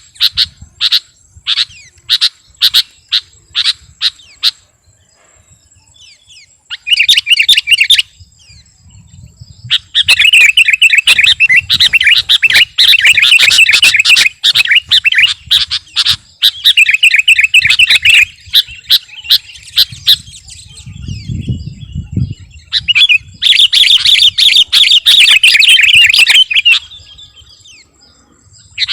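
Sooty-headed bulbul (kutilang) singing. It opens with a run of short separate calls, then gives long bursts of fast chattering song, loud and in energetic full voice. A faint steady high tone runs underneath.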